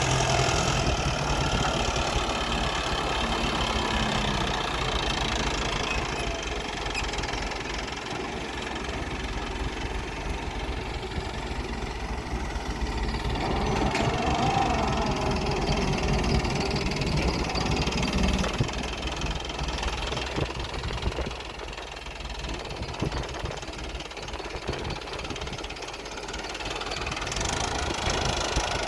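Diesel engines of an excavator and tractors running under load, swelling and easing as the machines work, with a short rising rev about halfway through.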